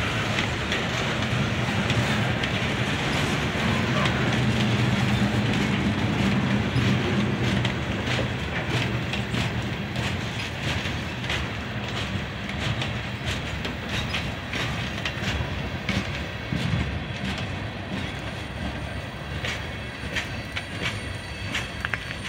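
Freight train of ballast hopper cars rolling past, steel wheels clicking over the rail joints under a steady rumble. The sound slowly fades as the last car goes by near the end.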